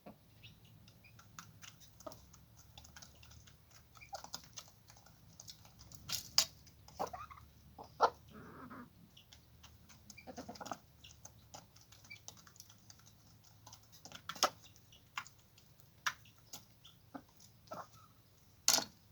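Chickens pecking at feed on a hard surface: a scatter of irregular sharp taps and clicks, with a few short calls.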